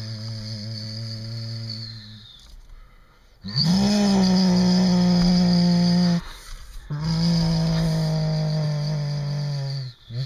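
A man imitating a Dodge Cummins turbo diesel with his voice: a low droning rumble with a high turbo-like whistle over it, in three long pushes, the middle one loudest. The whistle falls away at the end of the first and last pushes, like a turbo spooling down.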